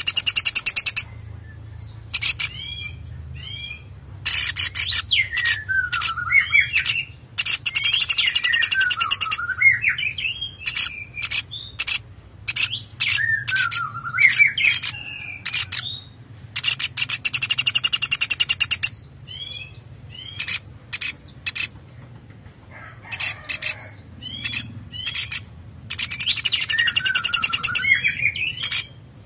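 A songbird singing in repeated bouts every few seconds: fast buzzy rattles, sharp clicks and swooping whistled notes, over a low steady hum.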